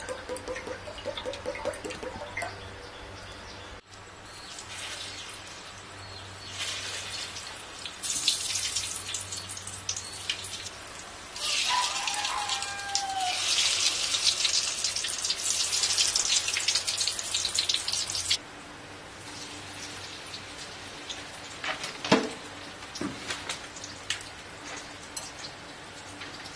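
Water running, as from a tap into a sink, growing louder for several seconds and then shut off abruptly; a few light knocks follow.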